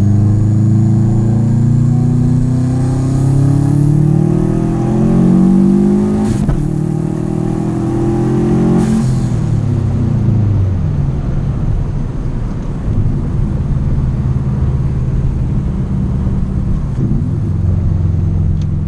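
Subaru WRX wagon's turbocharged flat-four engine heard from inside the cabin, pulling hard with the pitch climbing, a brief break at a gear change about six seconds in, then climbing again with a high whine rising alongside. At about nine seconds the revs drop off and the engine settles to a steady cruise.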